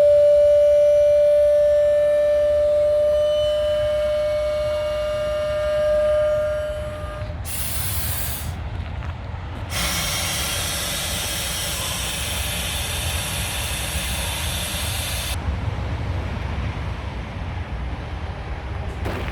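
A steady horn-like tone held for about seven seconds, then stopping. Compressed air then hisses in two blasts, a short one about eight seconds in and a longer one of about five seconds, over the low rumble of the Scania truck's idling engine.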